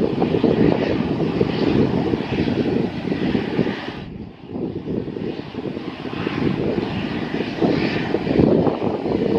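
Aircraft engine noise heard through heavy wind buffeting on the microphone, with a brief lull about four seconds in.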